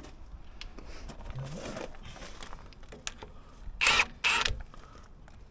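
Two short rasping metal scrapes about four seconds in, after light clicks and knocks from parts being handled during the excavator teardown.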